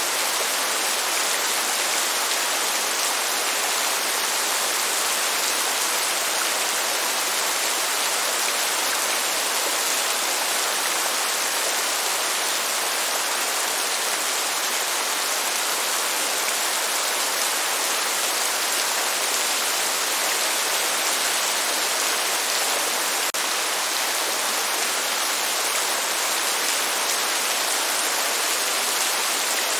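Steady rain falling, a dense even hiss that holds at one level throughout, with no thunder.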